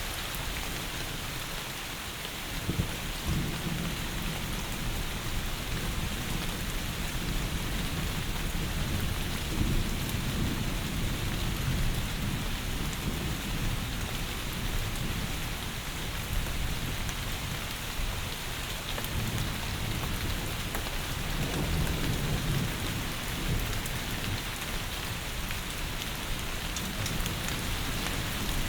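Heavy rain falling in a steady hiss, with low rumbles of distant thunder swelling under it about three seconds in and again after about twenty seconds.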